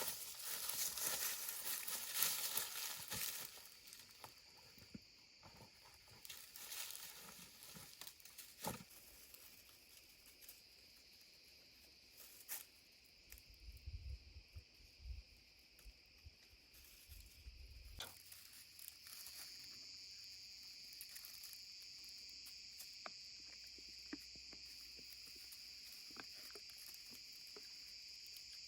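Forest ambience: a rustling, crinkling handling noise at the start, then scattered light clicks and knocks, and a steady high-pitched insect chorus that grows stronger about two-thirds of the way in.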